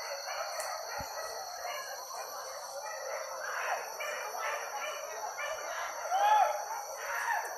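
Many overlapping animal calls, short and curving in pitch, with one louder call about six seconds in, over a steady high-pitched drone.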